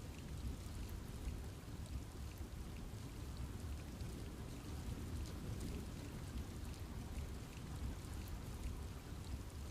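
Steady rain falling in a forest, a low even rush with scattered drops ticking on leaves.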